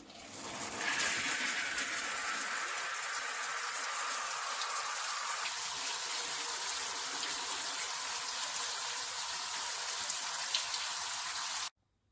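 Water running steadily from a tap into a sink, then stopping abruptly near the end.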